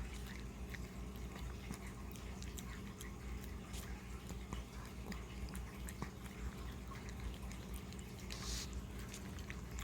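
Puppy licking and chewing peanut butter off a spoon: soft, irregular wet smacks and clicks over a low steady hum.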